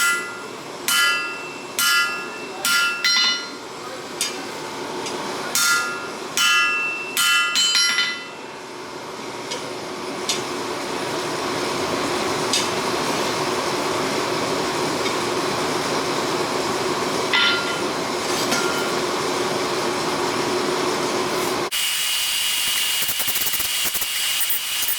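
Hammer blows ringing on steel at the anvil while forging a small sword blade, about ten strikes over the first eight seconds. A steady rushing noise follows, and near the end a power tool starts abruptly with a higher, hissing sound.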